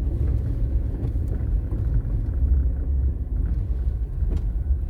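Low, steady rumble of a car driving slowly over a snow-covered road, heard from inside the cabin, with a few faint ticks.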